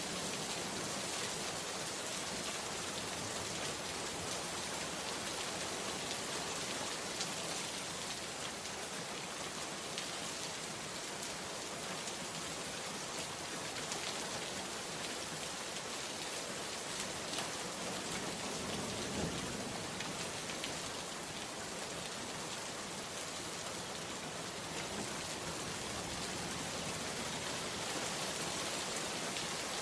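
Steady rain falling on a surface, an even dense hiss with scattered sharper drop ticks.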